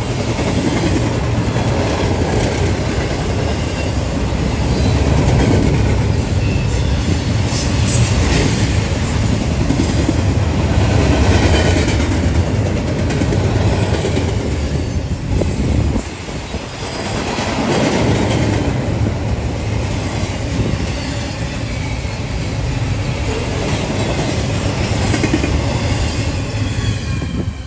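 Double-stack intermodal container freight train passing, a loud steady rumble and clatter of steel wheels on the rails that drops away as the last car goes by at the very end.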